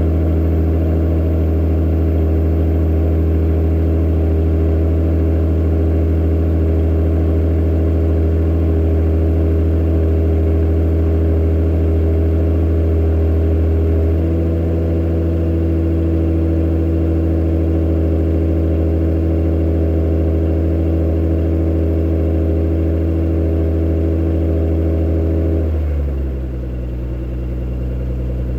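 Honda/Acura NSX V6 engine idling on a cold start, a steady fast idle whose pitch steps down about halfway through and drops again near the end as the idle settles lower.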